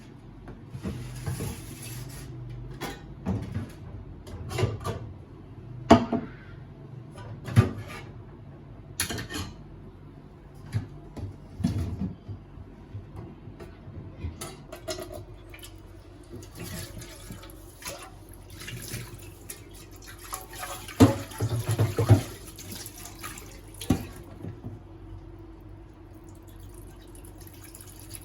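Water running from a tap in two spells, with scattered clinks and knocks of things being handled at the sink; the sharpest knocks come about six and seven and a half seconds in, and a cluster comes around twenty-one to twenty-two seconds.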